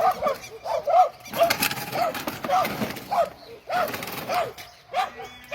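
A farm animal calling over and over in short rising-and-falling calls, about two a second, with a couple of brief pauses.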